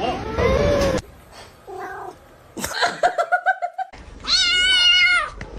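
Cat yowling: a run of quick short cries about three seconds in, then one long, high, wavering yowl about a second later.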